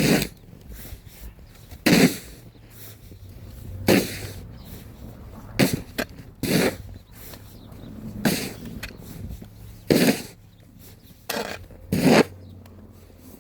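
Snow shovels scraping and pushing snow, about nine short strokes spaced a second or two apart.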